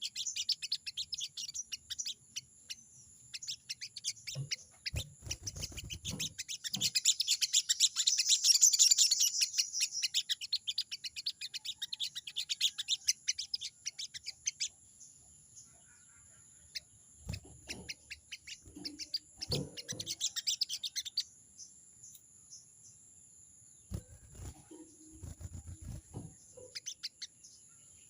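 Sogon bird giving its rapid 'crecet' chatter, a fast run of short, harsh high notes used to challenge a rival, loudest in the first half, then breaking off and coming back in shorter bursts. A few low rumbles come in between the bursts.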